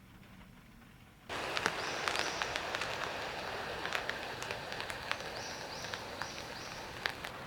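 Rain pattering, with individual drops ticking sharply. It comes in suddenly just over a second in, after near quiet with a faint low hum.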